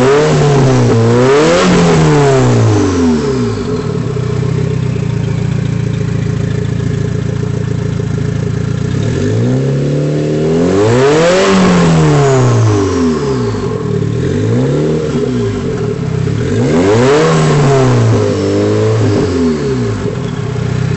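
Fiat Tipo Turbo's four-cylinder engine being revved while stationary: two quick blips, a steady idle for several seconds, then a run of revs rising and falling repeatedly before settling back toward idle.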